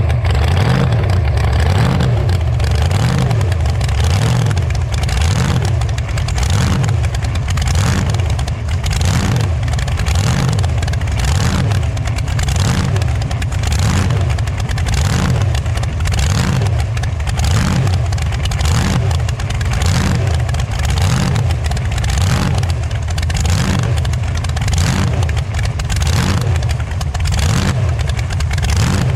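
Motor vehicle engine running steadily and loudly, with a regular pulse in the sound a little more often than once a second.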